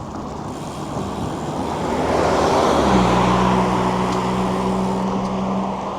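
A motor vehicle passing close in traffic: a rush of road noise swells to a peak about three seconds in, and a steady engine hum sets in then and holds.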